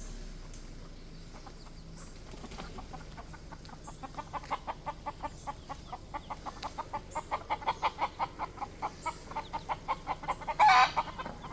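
Hen clucking rapidly and steadily, about four to five clucks a second, growing louder, then one louder squawk near the end. The bird is agitated, guarding her newly hatched chicks from a nearby person.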